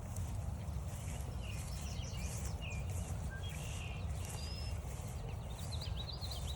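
Several songbirds chirping and whistling along a forest trail, with a quick run of high chirps near the end, over a steady low rumble on the microphone and the regular crunch of footsteps on the trail.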